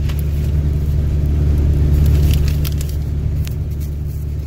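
Steady low rumble of a car's engine and tyres heard from inside the cabin while driving, with a few faint, scattered ticks.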